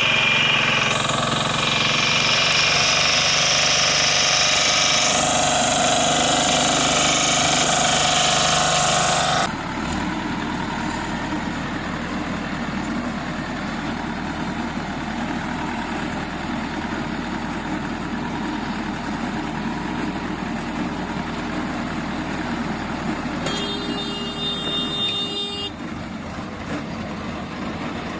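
Hay baler working behind its tractor, a steady mechanical running noise. The sound changes abruptly about nine seconds in to a lower, steadier machine, and a brief high squeal comes near the end.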